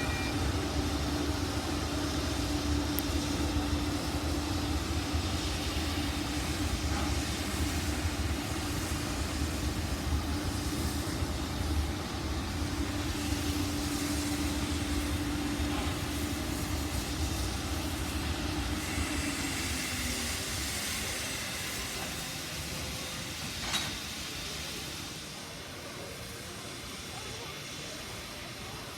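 Steam locomotives working at a station: a steady low rumble with a held tone that fades and dips in pitch about two-thirds of the way through. A single sharp clank follows, typical of a locomotive coupling onto the train.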